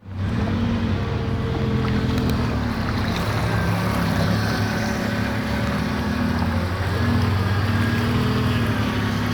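A motor vehicle's engine running steadily, with the rushing of rainwater flooding the street.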